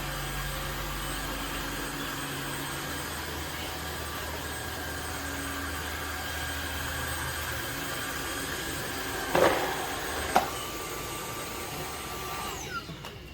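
Tineco Floor ONE S5 cordless wet-dry vacuum running steadily, with two sharp knocks about nine and ten seconds in. Near the end the motor winds down with a falling whine.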